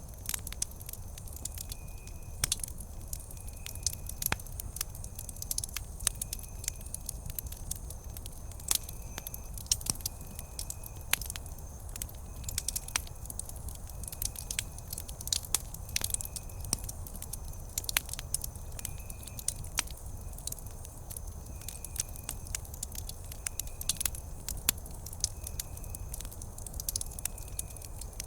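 Wood campfire burning with irregular sharp crackles and pops over a low rumble of the flames. A faint short high chirp repeats about once a second in the background.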